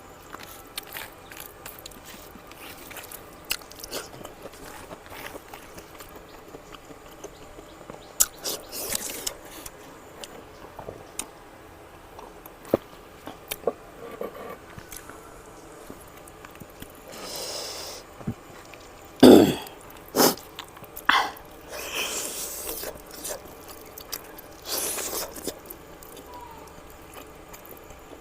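Close-miked eating sounds: chewing and mouth noises as scattered small clicks. About two-thirds of the way through there is one loud cough, followed by two shorter coughs.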